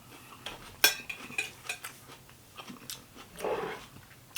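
Eating utensil clinking and scraping against a dish during a meal of egg salad: a sharp clink a little under a second in, then several lighter taps, and a brief soft rushing sound about three and a half seconds in.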